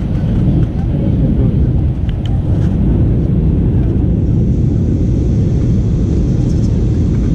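Steady low rumble of an Airbus A320-232's IAE V2500 engines and rushing airflow heard from inside the passenger cabin, with a few faint clicks about two seconds in.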